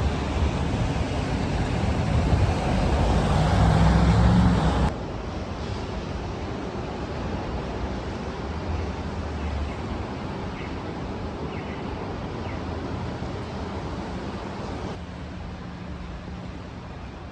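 City street ambience in heavy rain with road traffic. A vehicle grows louder over the first few seconds, then the noise drops suddenly about five seconds in and goes on as a steadier, quieter wash of traffic and rain.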